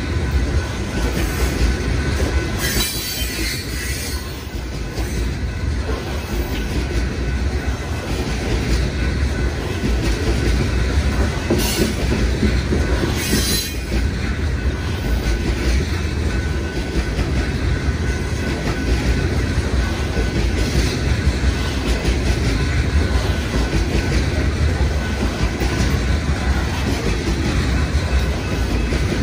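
Train rolling past on the BNSF line, a steady low rumble of wheels on rail with clickety-clack. Brief high wheel squeals come through about three seconds in and twice around twelve to fourteen seconds in.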